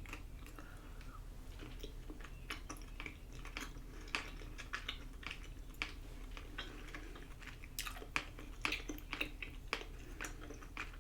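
A person chewing chewy Korean rice cakes (tteokbokki) close to the microphone: faint, irregular wet mouth clicks and smacks, several a second.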